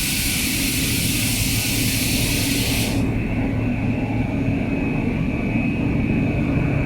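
Industrial machinery running steadily with a low hum, overlaid by a loud hiss that cuts off suddenly about three seconds in.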